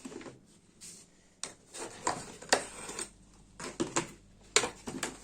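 Irregular sharp clicks and knocks of hard plastic parts being handled on an opened vacuum cleaner.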